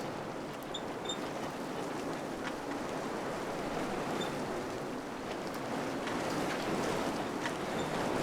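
Wind blowing, a steady rushing noise that swells slightly toward the end, with a few faint light ticks.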